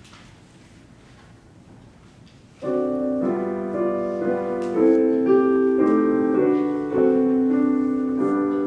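Quiet room tone, then about two and a half seconds in a piano comes in loudly with full chords: the introduction to a hymn, with the chords changing every half second to a second.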